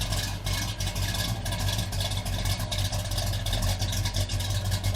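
Pontiac GTO V8 engine and exhaust running steadily at idle, a low note with a quick, uneven pulse and no rev.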